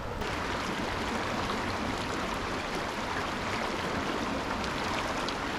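Steady rush of a shallow, fast-flowing river running over rocks.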